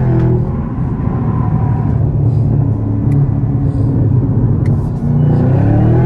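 Camaro ZL1's supercharged V8 running at highway speed, its note dipping and then climbing again about five seconds in as it accelerates.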